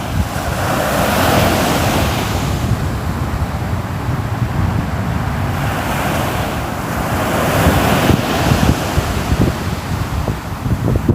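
Ocean waves breaking and washing on the shore, swelling twice as waves come in, with low thumps of surf and some wind on the microphone.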